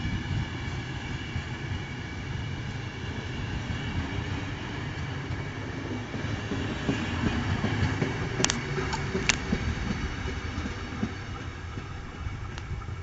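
Train of passenger couchette coaches rolling past close by, a steady rumble of wheels on the rails with two sharp clicks about two-thirds of the way through. The sound eases off near the end as the train draws away.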